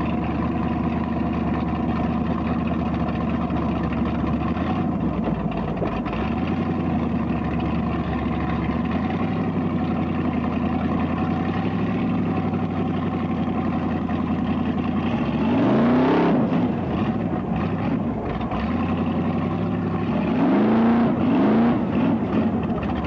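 Formula Offroad car's engine heard close up from the cockpit, running steadily at low revs, then revved in short rising blips about two-thirds of the way in and again near the end.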